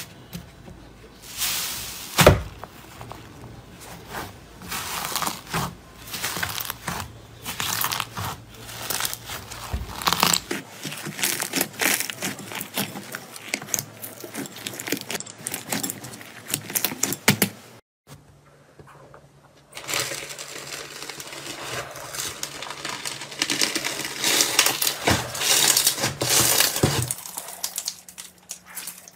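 Slime being squeezed, stretched and poked by hand, a dense run of sharp crackling, clicking and popping sounds. The texture changes abruptly a few times, as one clip cuts to the next.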